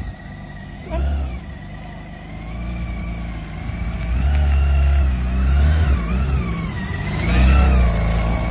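Motorcycle engine running under way, its pitch rising and falling several times with the throttle, over a heavy low rumble that comes and goes.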